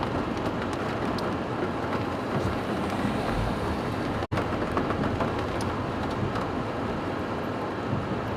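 Steady rain on a car and the car's running noise, heard from inside the cabin, with a few faint ticks. The sound cuts out completely for an instant about four seconds in.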